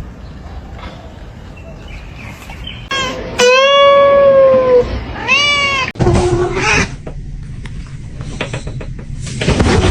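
A cat meowing twice: one long, drawn-out meow about three and a half seconds in, then a shorter one a moment later.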